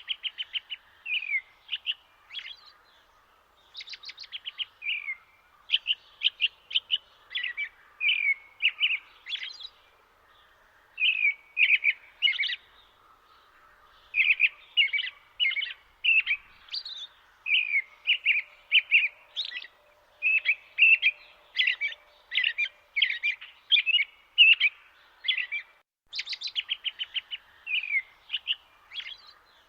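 Birdsong: many short high chirps and quick rapid trills, one after another with brief pauses, over a faint steady background hiss.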